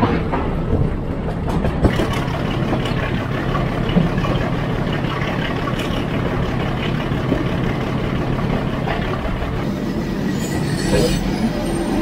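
Metre-gauge heritage train in motion: the steady rumble and rattle of the coach running on the rails, with a few short knocks from the wheels and couplings.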